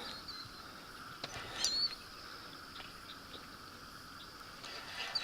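Quiet outdoor evening ambience: a faint, steady high insect hum with a few short, high chirps about a second and a half in.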